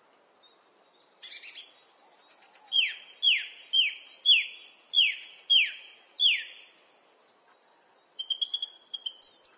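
A bird calling: a short cluster of quick notes, then a run of seven loud falling whistles about half a second apart, then a fast chatter of short high notes near the end.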